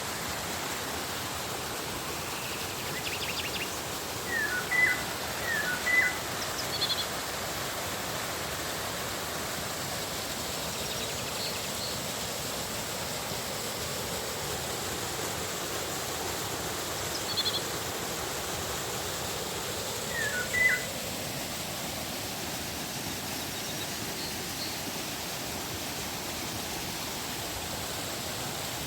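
River water rushing steadily, with a bird calling over it in short rising chirps: a cluster about four to seven seconds in, another around twenty seconds, and fainter high chirps between.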